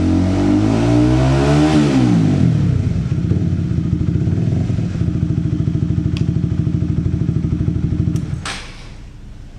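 Honda CBR150R's single-cylinder engine breathing through a custom slip-on aftermarket muffler: blipped up in a quick rev that peaks and falls back to a loud, lumpy idle. The engine stops near the end, followed by a short click.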